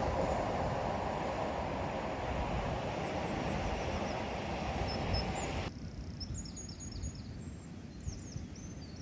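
A passing train's rumble fading as it moves away. About six seconds in it drops off abruptly, leaving a few small birds chirping.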